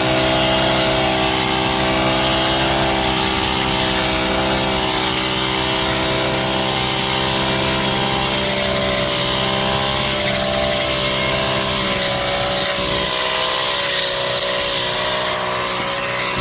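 Honda GX35 brush cutter's small four-stroke engine running steadily, its pitch wavering slightly up and down.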